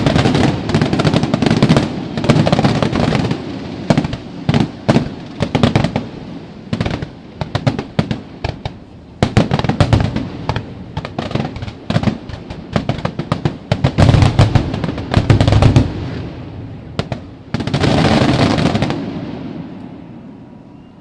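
Fireworks going off in quick succession: dense clusters of sharp cracks and deep booms with short lulls between them. The last heavy volley comes about two seconds before the end and then dies away.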